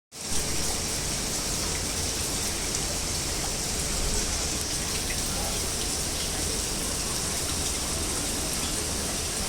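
Steady rush of water from an artificial indoor waterfall built into a rock wall. It starts abruptly and holds even.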